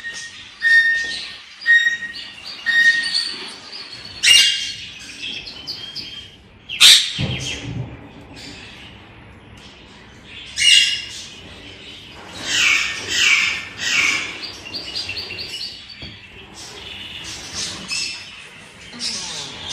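Aviary parrots chirping and squawking. Short repeated chirps come about once a second at first, a loud sharp call comes about seven seconds in, and harsher squawks come in a cluster a little past the middle.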